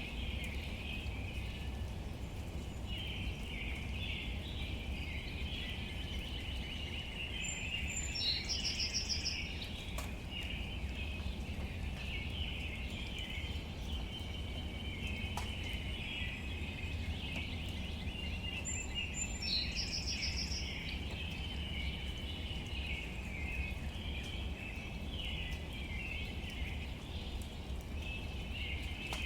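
Outdoor nature ambience: a continuous chirring chorus of birds or insects over a low rumble, with a short bird call that comes three times, about eleven seconds apart.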